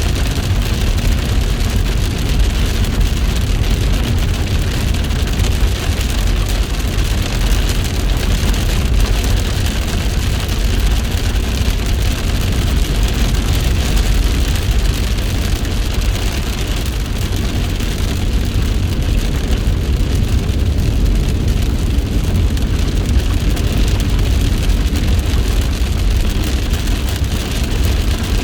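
Heavy rain falling steadily: an even, unbroken hiss with a strong low rumble underneath.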